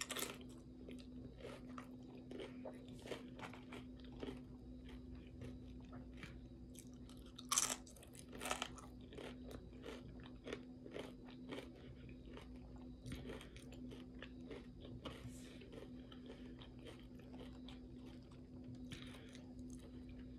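Tortilla chips and taco salad being bitten and chewed: many small crisp crunches throughout, with two louder crunches about halfway. A steady low hum runs underneath.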